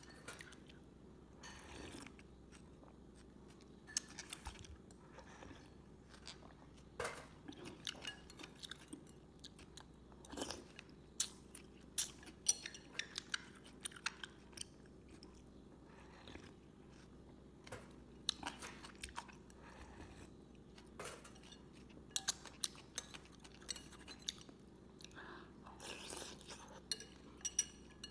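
A person eating a bowl of Vietnamese rice noodles with minced meat and bean sprouts: chewing close to the microphone, with irregular crunchy bites and sharp clicks.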